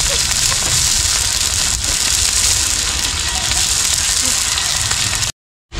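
Cabbage sizzling in a wok over a wood fire, a steady hiss that cuts off suddenly about five seconds in.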